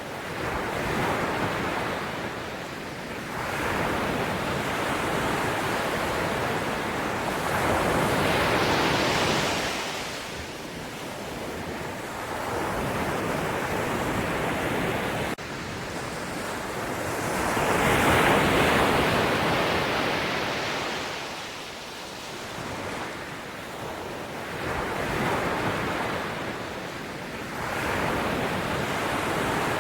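Sea waves breaking and washing up the shore, the surf swelling and falling back every few seconds. The two biggest waves break about a quarter and two-thirds of the way in.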